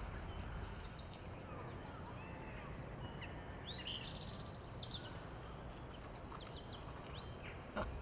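Small birds chirping in short high notes over a faint steady background hush, with a quick run of repeated notes near the end.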